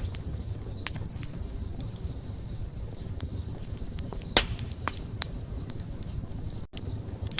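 Wood bonfire burning with a steady low rumble and scattered crackles, with a few sharper pops about halfway through.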